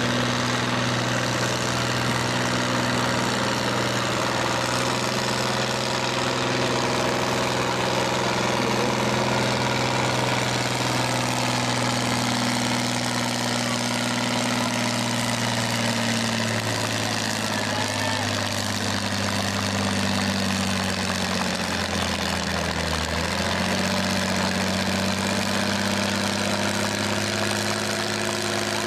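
Tractor engine running hard at a steady pitch, then sagging briefly and picking back up about three quarters of the way through.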